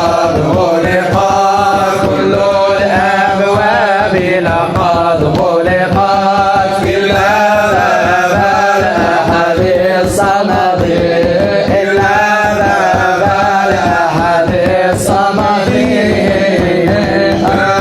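Arabic religious nasheed: voices singing a wordless, wavering melodic passage over a steady low drone.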